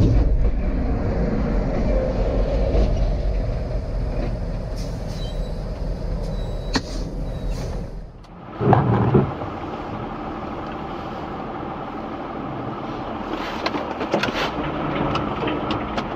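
Steady engine and road noise of a moving car, as picked up by a dashcam, with a short loud burst about nine seconds in. The noise changes character after an abrupt break just before the burst.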